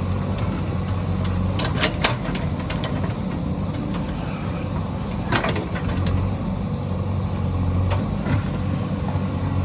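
Diesel engine of a JCB backhoe loader running steadily, with a few sharp knocks: around two seconds in, in the middle, and near the end.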